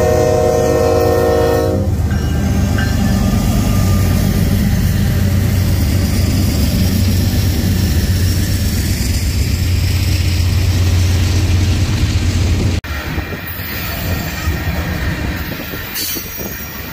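Freight locomotive horn sounding and cutting off about two seconds in, then the diesel locomotives' deep rumble as they pass. Near the end the sound drops abruptly to loaded grain hopper cars rolling by with wheel clatter and a brief wheel squeal.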